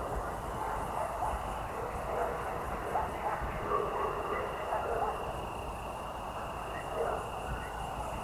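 Evening countryside ambience: crickets chirring steadily in one high, even tone, over faint scattered sounds and a low rumble.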